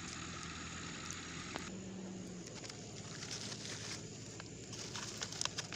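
Plastic litter crackling as it is handled, in a cluster of sharp clicks near the end, over a steady outdoor background with a faint low hum.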